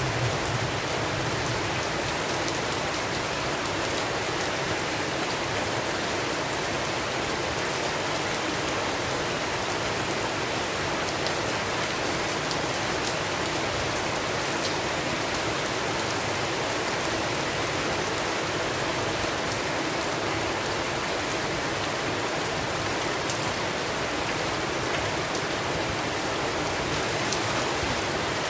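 Steady rainstorm: an even hiss of heavy rain, dotted with the faint ticks of single drops, holding the same level throughout.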